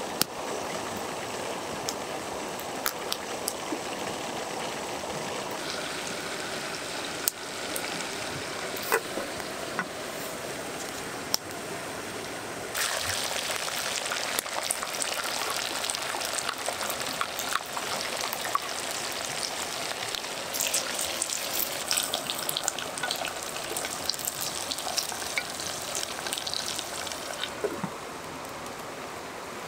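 Steady rush of a river with sparse pops and crackles from a wood campfire. About 13 seconds in, loud sizzling and spitting of chicken wings frying in oil in a pot over the fire takes over, and it drops away near the end as a lid goes on the pot.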